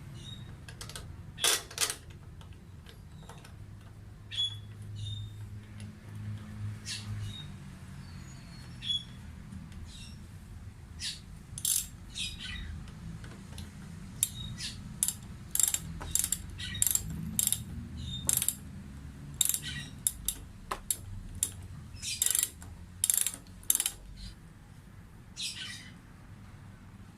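Irregular clicks and snaps of small hard parts or tools being handled, thickest in the second half, over a faint low hum.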